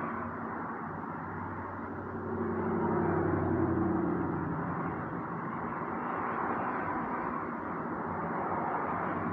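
Steady vehicle noise, swelling about two to four seconds in.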